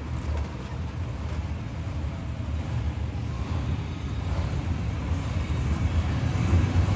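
Monster truck engine running with a deep, steady rumble that slowly grows louder toward the end.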